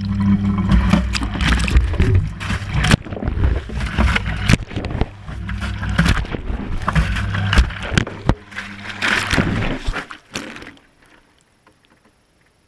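Whirlpool Indiana 1400 washing machine drum turning during a wash cycle, heard from inside the drum: a steady motor hum with water sloshing and the camera housing knocking against the drum now and then. The drum stops about ten and a half seconds in, leaving near quiet.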